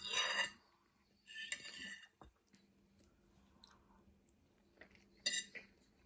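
A person eating on a close microphone: three short bursts of chewing and mouth noise with quiet gaps between them.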